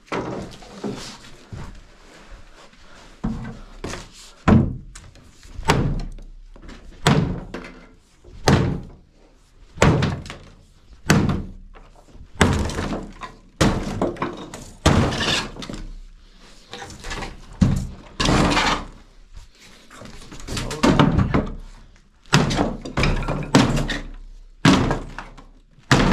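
Repeated heavy blows on wood, about one a second with a short echo after each: old wooden furniture being knocked apart and broken up for firewood.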